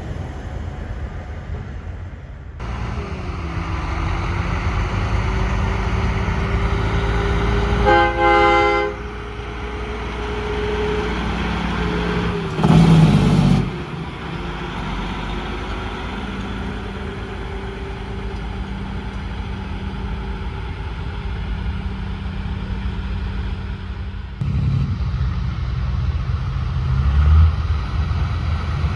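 Trucks' engines running as they pass, with a short horn blast about eight seconds in and a loud rush of noise lasting about a second near the middle.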